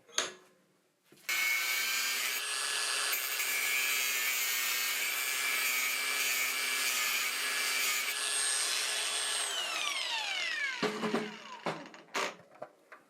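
Angle grinder starting up about a second in and cutting through a metal bar for several seconds, its motor whine steady under the grinding noise. It is then switched off and spins down with a falling whine, followed by a few knocks near the end.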